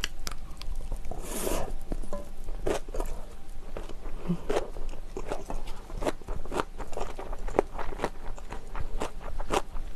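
Close-miked chewing of a mouthful of bibimbap made with herring roe and chopped green chilies: a steady run of crisp crunches and wet mouth clicks, with a spoon stirring in a stainless steel bowl now and then.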